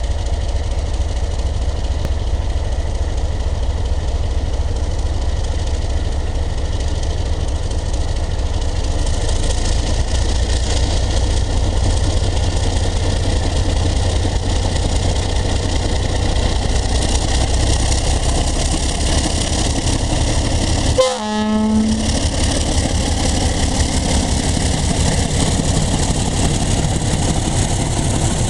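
Class 321 diesel locomotive running under load as it hauls a long work train, a steady low engine rumble mixed with rolling rail noise. The sound cuts out briefly about three quarters of the way through.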